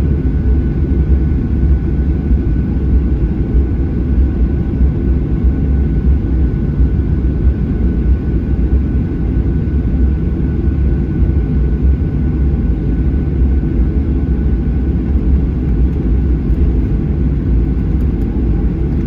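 Cabin noise inside a Boeing 737-800 taxiing, its CFM56-7B jet engines running at taxi power. A steady low rumble with a faint steady high tone above it.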